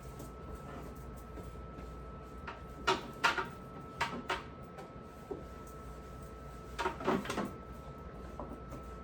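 Knocks and clatter of objects being handled, like a drawer or cupboard being moved, in two short clusters about three and seven seconds in, over a faint steady hum.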